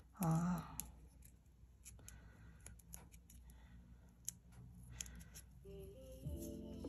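Faint handling of washi tape and paper: scattered small clicks and snips. A brief vocal murmur comes about half a second in, and faint music comes in near the end.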